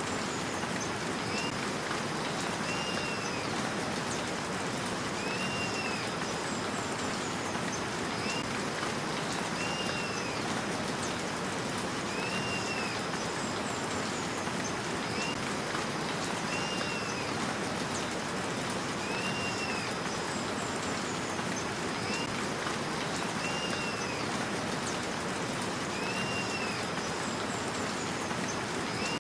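A steady, even hiss like rain falling, with a short high arched call repeating about every two seconds.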